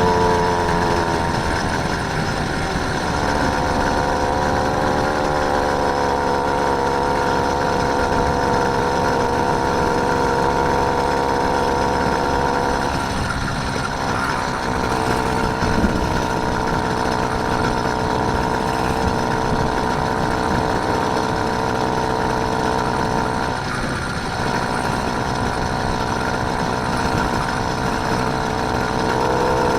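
A motorised bicycle's small engine running steadily under way. Its note falls over the first few seconds, dips briefly twice more, and rises again near the end.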